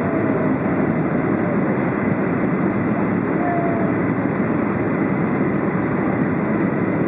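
Steady cabin noise inside a Boeing 737-700 in flight: the even rush of air along the fuselage mixed with the hum of its CFM56 jet engines, with a faint steady whine on top.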